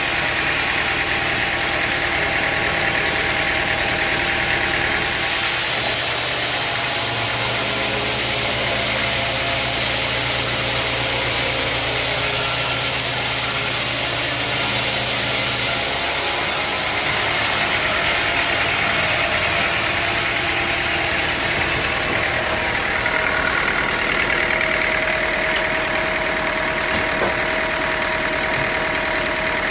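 Sawmill machinery running steadily with an engine-like drone. From about five seconds in until about sixteen seconds in, a brighter hiss and a lower hum join it.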